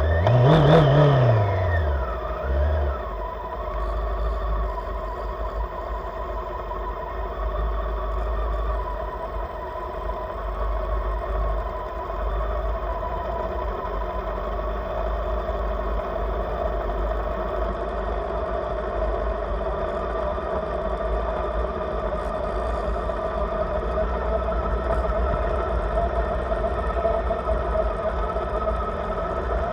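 Honda CB600 Hornet's inline-four engine revving up and dropping back in the first couple of seconds, then running steadily under way with its pitch creeping slowly upward. A heavy low wind rumble runs under it on the camera microphone.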